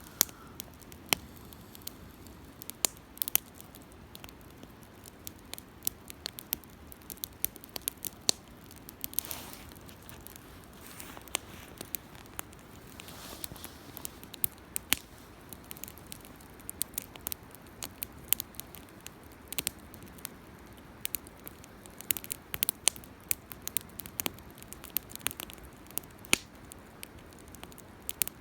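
Wood fire crackling, with irregular sharp pops and snaps over a faint low hiss, and a couple of brief soft rushes of flame.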